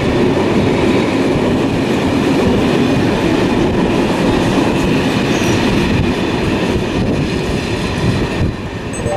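Locomotive-hauled Corail passenger coaches rolling past slowly, a steady rumble of wheels on rails that eases slightly near the end as the train draws away.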